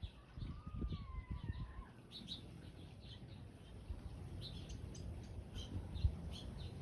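Hummingbird's short, high chip notes, repeated irregularly, with a wavering whistled note that glides up and down in the first two seconds. A low rumble runs underneath.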